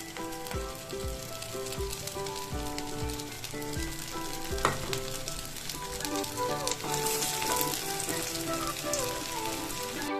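Spinach-and-pea kebab patties coated in sabudana powder shallow-frying in hot mustard oil, with a steady sizzle. The sizzle grows louder about seven seconds in, as another patty is slid into the oil. Background music with a steady beat plays underneath.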